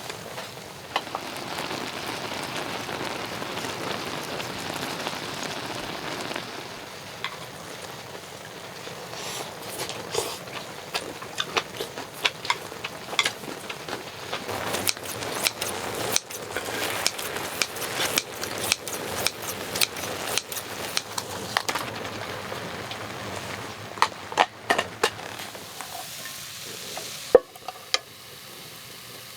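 Food sizzling in a hot pan, with repeated sharp clicks and scrapes of a utensil stirring it through the middle and near the end.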